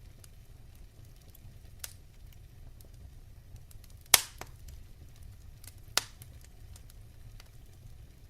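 Wood fire crackling in a fireplace: a low rumble of flames with scattered faint ticks and three sharp pops, the loudest about four seconds in.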